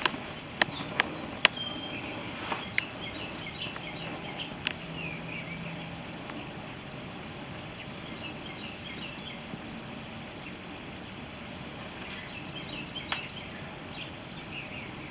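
Outdoor background noise with scattered small bird chirps, and a few sharp clicks, mostly in the first few seconds.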